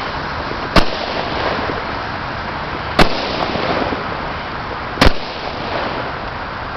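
Consumer fireworks going off: three sharp bangs about two seconds apart over a steady background hiss.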